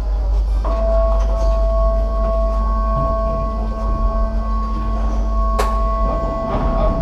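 Porsche GT3 Cup race car's engine idling at a standstill with a steady low rumble. About a second in, a steady high multi-pitched tone starts and holds, and there is a single sharp click just before the end.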